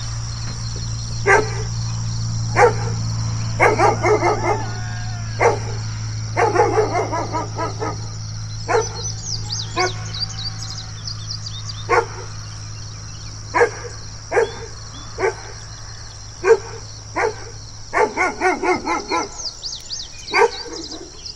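A large dog barking in warning: single sharp barks a second or two apart, broken by three quick runs of rapid barks. A steady low hum sits underneath until late on, and birds chirp faintly.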